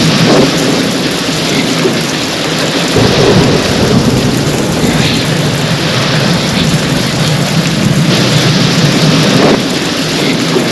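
Steady heavy rain with thunder rumbling through it; a deeper rumble swells about three seconds in and carries on.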